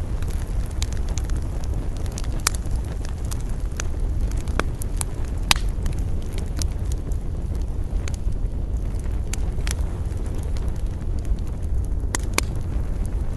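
Campfire burning with irregular sharp crackles and pops over a steady low rush of wind.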